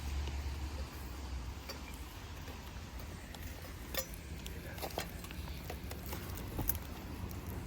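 Scattered light clicks and clinks of cooking over an open fire, over a low steady rumble.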